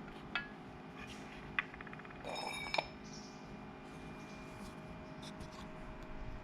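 A few light metallic clinks and taps from tools or metal parts being handled, one with a short ring about two and a half seconds in, over a steady faint hum.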